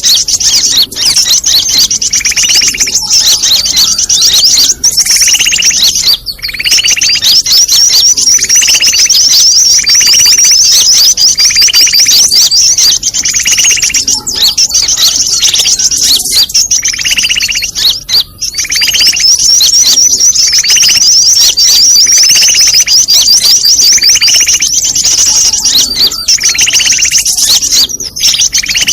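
A loud, dense bird-lure track of many small birds chirping and trilling at once, made to draw wild birds in to a trap. A lower, short call stands out every second or two.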